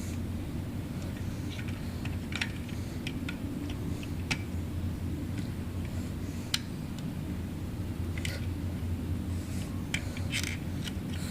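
Scattered light clicks and taps over a steady low hum, with a few clustered together near the end.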